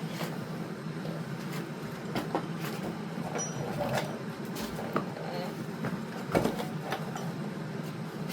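Irregular metallic clinks and knocks from hand tools and hardware, about half a dozen short hits spread out, over a steady low hum.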